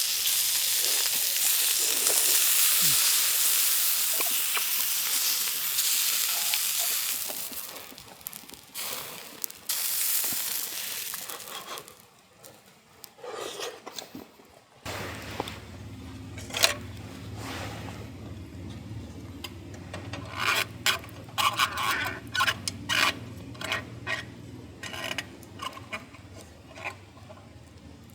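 Food sizzling in a hot pan, dying down after about seven seconds. Later a steady low hum sets in with a run of light clinks and scrapes of utensils against cookware.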